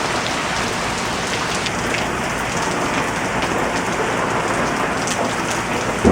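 Steady rainfall, with drops pattering on surfaces close by.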